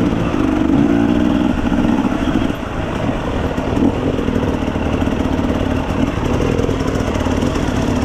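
Enduro dirt bike engine running steadily under way, its pitch wavering a little in the first couple of seconds and then holding fairly even.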